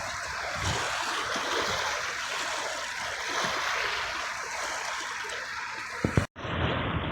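Sea water washing and hissing steadily. It cuts out for an instant about six seconds in.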